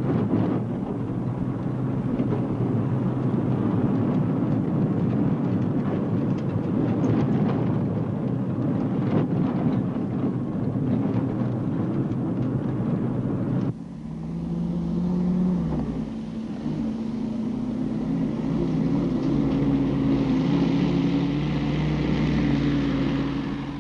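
A motor vehicle's engine running while driving, a steady rumble with rattling, which cuts off abruptly about two-thirds of the way through and gives way to steady held low tones.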